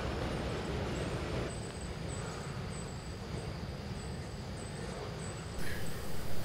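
Freight train of boxcars rolling slowly past, a steady low rumble of wheels on rail that eases a little about a second and a half in.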